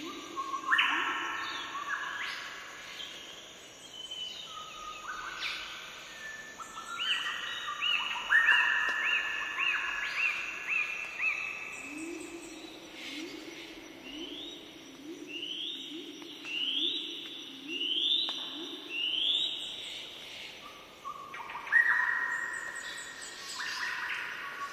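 Birds singing: phrases made of fast runs of repeated whistled notes, several per second, come one after another. A lower-pitched run of repeated notes joins in at times, over a thin steady high tone.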